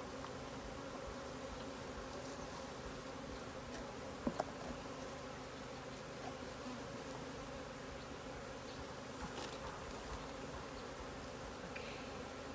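Honeybee swarm buzzing, a steady hum of many bees together, with two sharp clicks about four seconds in.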